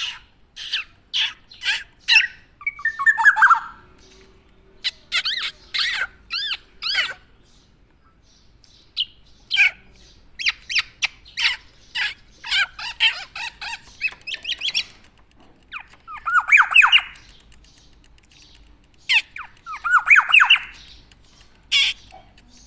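Black-naped oriole (kepodang) calling over and over: short sharp notes mixed with harsh, quickly warbled squawking phrases, coming in bouts with brief pauses.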